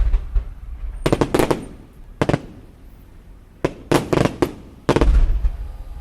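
Fireworks exploding: sharp bangs in irregular clusters, with a heavier, deeper boom about five seconds in.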